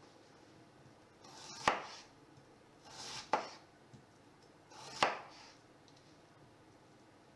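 A kitchen knife slicing through a firm root vegetable and striking the cutting board three times, about a second and a half apart; each cut builds briefly before ending in a sharp knock.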